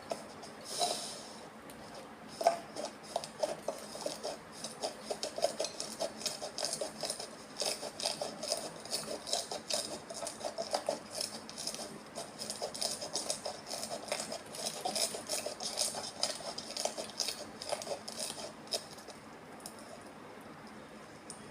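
Slime being squeezed and kneaded by hand, making rapid sticky clicking and popping sounds that stop shortly before the end.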